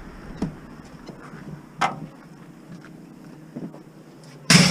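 A few light knocks, then one loud bang with a short ring near the end.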